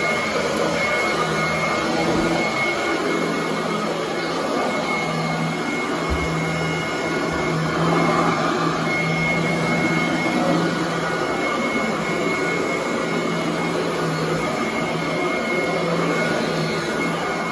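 Royal commercial vacuum cleaner running steadily over carpet: a continuous rush of air with a steady motor hum and a thin high whine.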